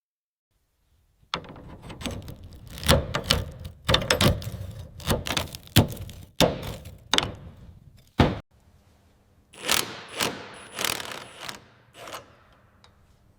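Workshop handling sounds from tools and metal parts: a quick run of knocks and clunks starting about a second in, then softer swishes and light taps in the second half.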